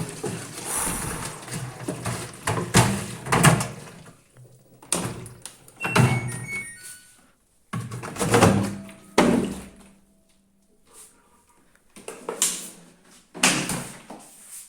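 Irregular heavy knocks and clatters from the LG washing machine's panels and parts, a dozen or so separate impacts with brief metallic ringing about six seconds in, coming further apart and quieter near the end.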